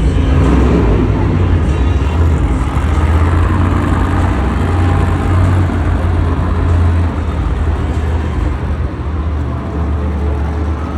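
Monster truck engine running, a loud, steady low rumble with a wash of noise over it.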